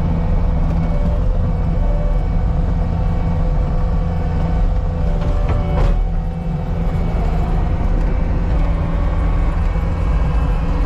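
CAT 279D compact track loader's diesel engine running steadily under work, with a brief clank about six seconds in.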